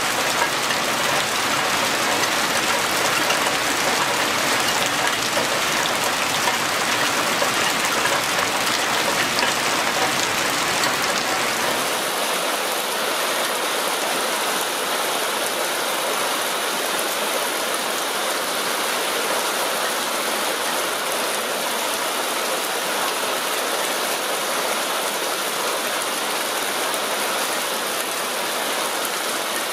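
Heavy rain: a dense, steady hiss of rain falling on foliage and splashing into a water-filled basin below a rain chain. About twelve seconds in it changes to a thinner, hissier rush of rainwater pouring in a sheet off a roof edge, with the low rumble gone.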